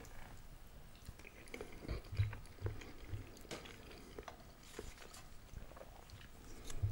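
Close-miked chewing of a mouthful of fried egg, with wet mouth sounds and a few soft low thumps about two seconds in. Light clicks of knife and fork on a plate come in between.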